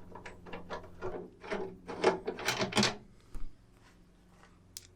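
Quick run of metallic clicks and scrapes as a seatbelt bolt and its fittings are handled and tried in the mounting, stopping about three seconds in, with one more click near the end.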